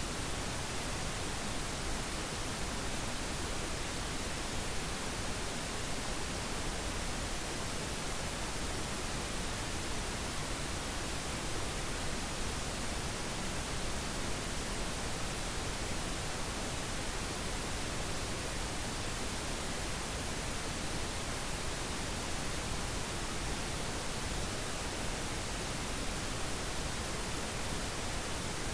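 Steady synthetic pink noise: an even, unchanging hiss across the whole range, with no events or variation.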